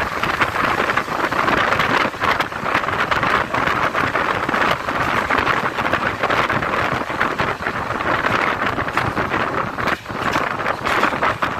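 Moving passenger train: a steady rush of wheel and rail noise with constant small clicks and rattles, and wind buffeting the microphone. There is a brief dip about ten seconds in.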